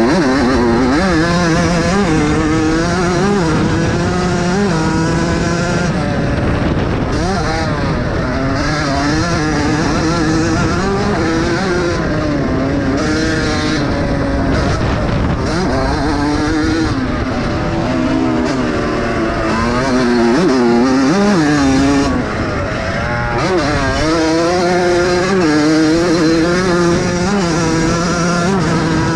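Several vintage motocross bikes racing, their engines revving up and down together as the riders work the throttles, the pitch rising and falling over and over with no pause.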